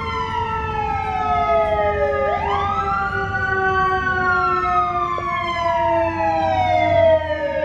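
Emergency vehicle siren wailing as it passes. Each wail sweeps up quickly and falls slowly over several seconds, over a low traffic rumble.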